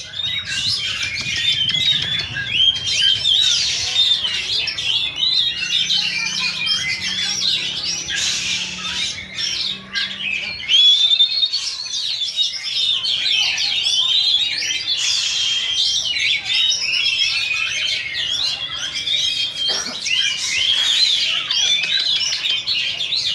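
Many oriental magpie-robins singing at once, a dense overlapping chorus of loud whistles, chirps and fast trills with no gaps.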